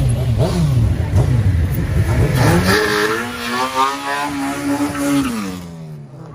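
Car engine revved hard again and again, its pitch rising and falling about every half second. Then, about three seconds in, one long high rev holds steady for a couple of seconds before dropping away near the end.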